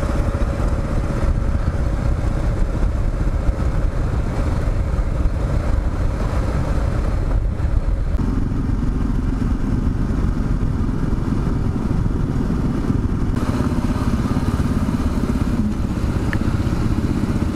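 Kawasaki KLR 650's single-cylinder engine running steadily as the motorcycle is ridden, with a change in engine note about eight seconds in.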